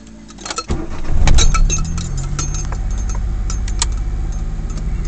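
Key turned in the ignition of a 1991 Daewoo Tico, with keys jingling. The small three-cylinder engine cranks briefly and catches about a second in, loudest as it fires, then settles into a steady idle.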